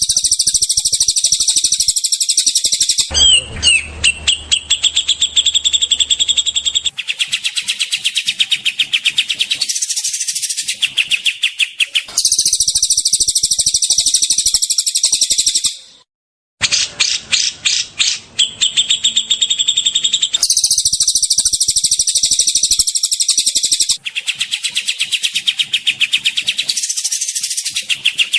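Songbirds chirping loudly and rapidly in dense, almost unbroken runs of high notes, the phrases changing every few seconds, with a sudden half-second break about sixteen seconds in.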